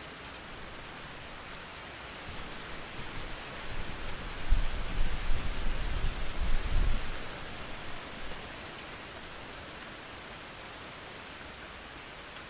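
Steady rain with a roll of thunder. The thunder builds about two seconds in, rumbles deep and loudest through the middle, and fades away by about eight seconds.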